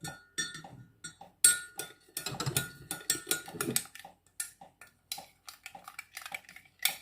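Kitchen utensils clinking and tapping against dishes while sauce ingredients are combined: a run of sharp clinks with a brief ring, the loudest about one and a half seconds in, then lighter quick taps.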